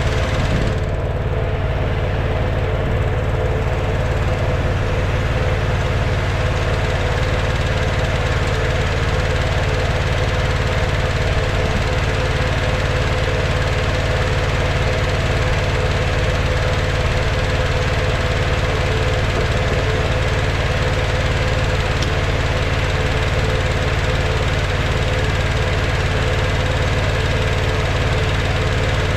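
Tractor engine idling steadily at an even, unchanging pitch.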